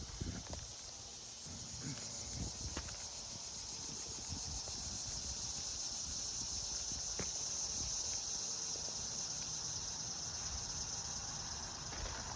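Steady high-pitched chorus of insects outdoors, swelling a little toward the middle, over a low rumble, with a few sharp taps.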